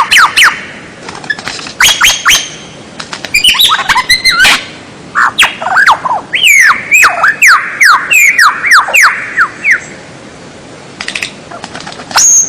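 Bird song: bursts of loud, sharp whistled notes, each sweeping down in pitch, with a longest rapid run in the middle, a short pause, then a single high note near the end.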